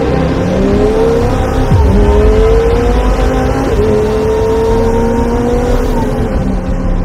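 Lamborghini Huracán STO's naturally aspirated V10 accelerating hard, its pitch climbing through the gears and dropping back at each upshift.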